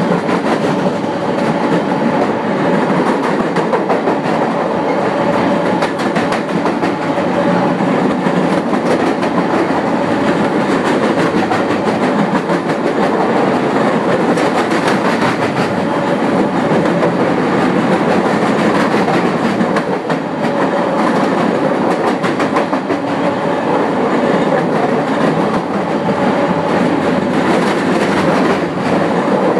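A train passing directly overhead, heard from about 10 feet beneath it: a steady loud rumble and rattle of the cars and wheels, with wheel clicks over the rails, continuing throughout.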